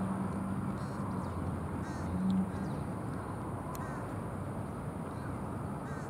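Steady low background rumble with a few faint, short bird calls.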